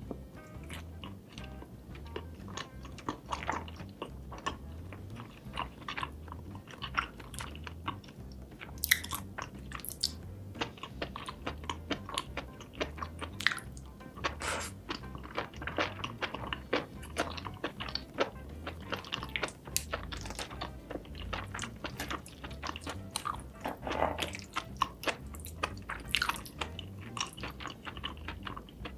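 Close-miked eating: wet chewing and biting of saucy rice cakes and mushrooms, with many short mouth clicks and smacks throughout. Quiet background music with a low repeating beat runs underneath.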